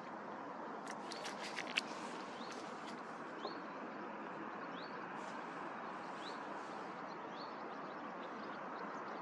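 A small bird calling with short rising chirps, repeated roughly once a second, over a steady faint background hiss, with a quick run of sharp high chirps about a second in.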